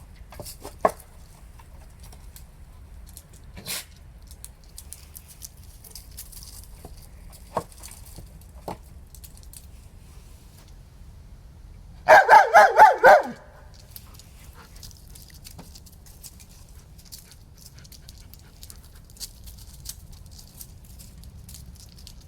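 German Shepherd dog giving a quick burst of five or six high-pitched barks about twelve seconds in, with a few faint knocks scattered before it.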